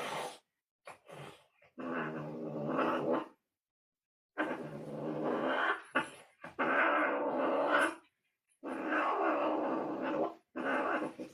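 Cat growling in five long drawn-out calls with short pauses between them.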